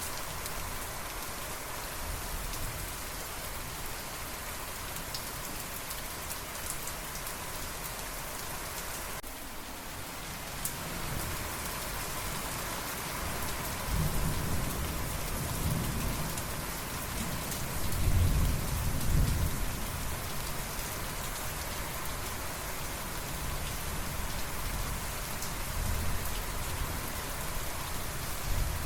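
Steady rain falling on a surface, with rolling thunder: a low rumble builds about halfway through, peaks a few seconds later and fades, with a weaker roll near the end.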